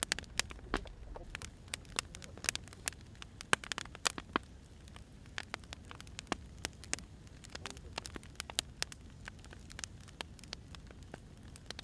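Firewood burning, crackling with irregular sharp pops and snaps over a steady low hiss.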